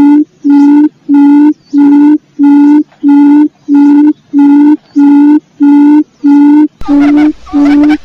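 Quail (burung puyuh) lure call: a low, hollow hoot repeated steadily about one and a half times a second, each note about half a second long. Other birds and outdoor background noise join faintly near the end.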